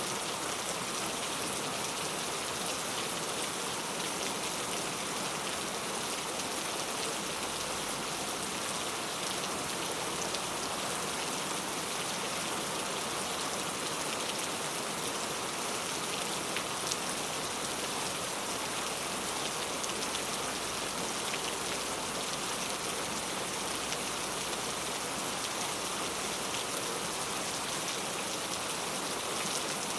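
Heavy rain falling steadily, a dense hiss of drops pattering on hard surfaces.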